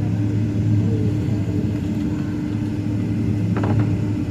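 Steady low rumble in the cabin of a Boeing 767 on the ground, with a constant hum from the engines and the rolling of the gear. About three and a half seconds in there is a brief clatter of a few clicks.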